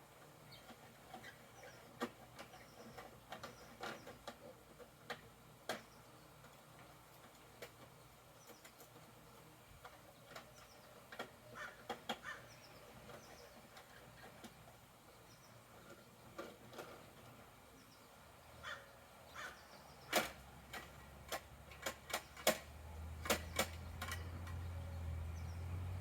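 Scattered light clicks and knocks of plastic toy parts being handled, coming thicker and louder in the last few seconds, with a low hum building near the end.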